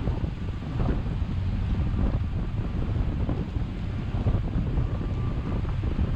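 Storm wind buffeting the microphone: a continuous, gusty low rushing noise.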